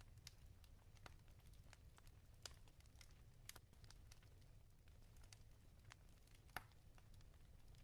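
Wood fire crackling in a fireplace: irregular small pops and snaps over a low steady rumble, with one sharper pop near the end.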